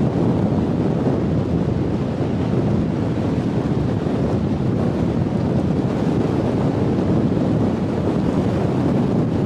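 Steady wind buffeting the microphone, a loud low rumble with no distinct impacts.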